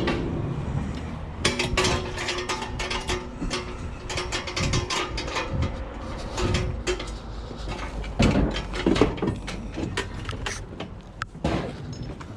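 Rapid clicking and rattling, like a mechanism or loose metal parts being worked, with a few heavier knocks later on.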